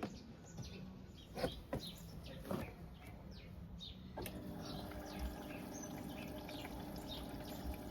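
Faint short falling chirps repeat over a few clicks. About four seconds in, a washing machine starts a steady low hum.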